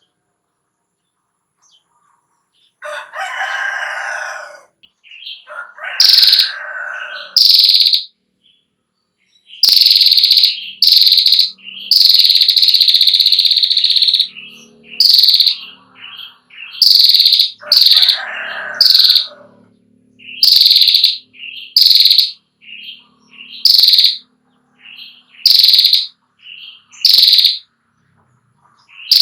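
Female prenjak klawu (a prinia) calling: a string of short, sharp, high calls about one a second, with a long unbroken trill of about two seconds in the middle. Lower, harsher calls come three times.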